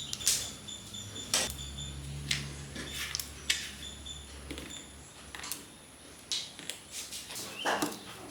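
Scattered clicks and knocks of hand tools and metal parts being handled during work on the engine, with a low steady hum for a few seconds in the first half.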